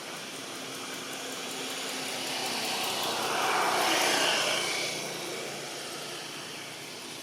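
A passing vehicle: a broad rushing noise that swells to a peak about four seconds in, then fades away.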